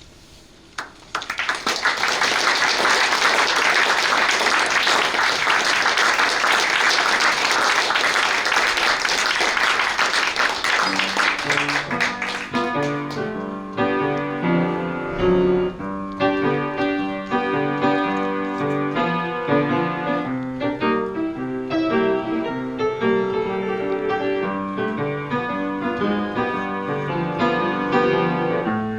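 Audience applauding for about ten seconds, then a solo piano starts playing a little before halfway through and continues.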